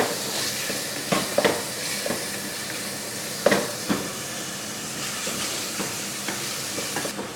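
Chicken pieces sizzling as they fry in ghee with ginger and garlic paste, stirred in the pan, with a few short knocks of the utensil against the pan. The chicken is being browned lightly.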